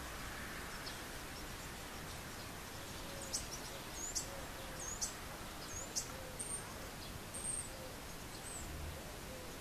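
Outdoor ambience with a songbird calling: a run of short high chirps and hooked whistled notes, about one a second from roughly three seconds in, over a steady background hiss.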